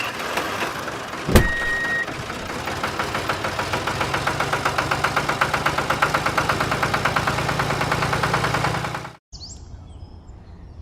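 A small motor running with a fast, even pulse of about eight beats a second over a low hum, with one sharp knock about a second and a half in; it cuts off suddenly near the end.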